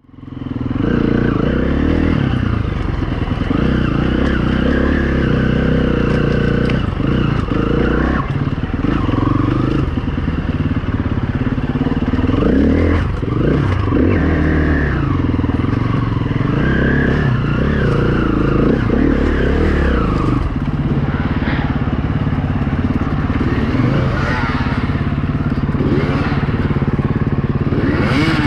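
Dirt bike's four-stroke single-cylinder engine, a 2016 KTM 350 EXC-F, being ridden off-road: the revs rise and fall again and again as the throttle is worked, with a few knocks mixed in.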